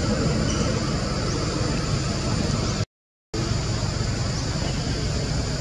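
Steady hiss of falling rain, cut off by a brief dropout to dead silence about three seconds in.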